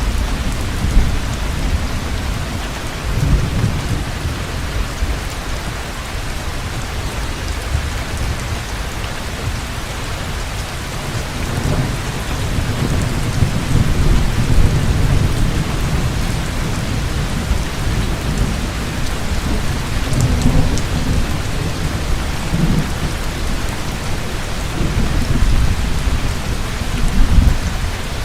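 Heavy rain falling steadily, with low rolling thunder that swells and fades several times, loudest about halfway through and again near the end.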